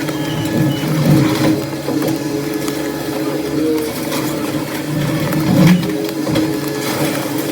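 Heavy demolition machinery running steadily, an engine hum with a hydraulic whine that shifts a little in pitch, with scattered knocks and clatter of debris.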